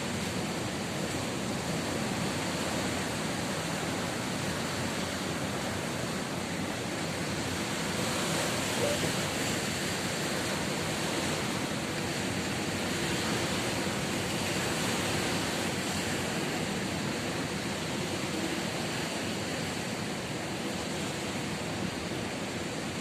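Ocean surf: a steady wash of breaking waves that swells a little a couple of times.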